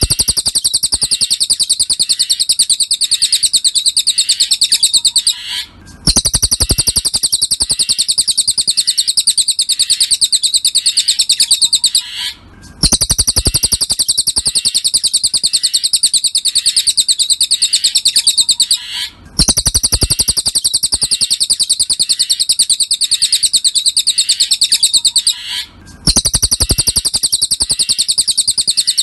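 Cililin bird song: a fast, high-pitched, chattering trill that runs for about six and a half seconds at a time, with brief breaks of about half a second, four times over.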